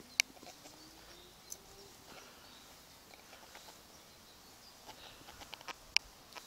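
Quiet outdoor garden ambience with scattered short, sharp bird chirps; the loudest come just after the start and again about six seconds in. A faint rising hum runs under the first two seconds.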